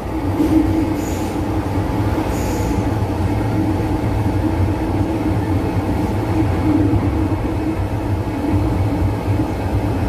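Interior sound of an MTR M-Train passenger car running into a station: a steady hum and wheel-on-rail rumble, with a couple of brief high squeals in the first few seconds.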